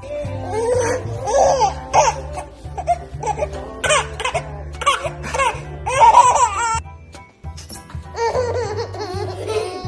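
A baby laughing in repeated fits over background music with a steady low bass line. The laughter pauses briefly about two-thirds of the way in, then starts again.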